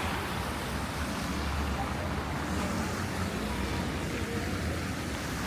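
Steady city traffic noise: an even, low rumble of cars on snow-covered roads.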